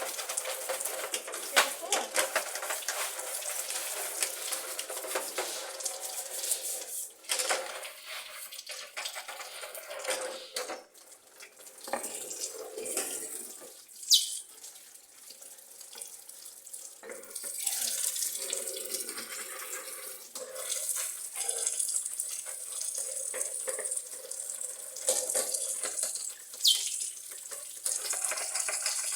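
Tap water running into a sink while the bottom tray of a birdcage is washed under it, the flow splashing and changing as the tray is moved, with small knocks against the sink. Two short high falling chirps cut through the water, about halfway and near the end.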